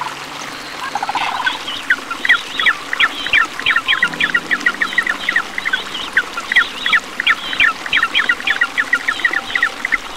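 Penguins calling: a fast run of short, high calls, several a second, starting about two seconds in.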